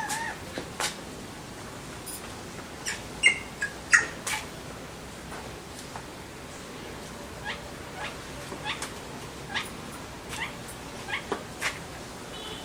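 Alexandrine parakeets giving short, sharp chirps and squawks at irregular intervals, the loudest two a few seconds in.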